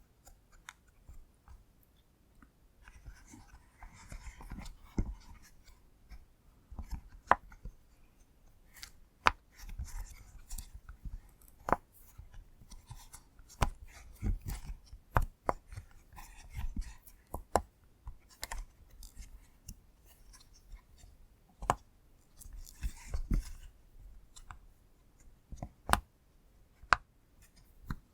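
Silicone pop-it fidget toy bubbles being pressed in, irregular sharp pops about one or two a second, some louder than others, with soft rubbing of fingers on the silicone between them.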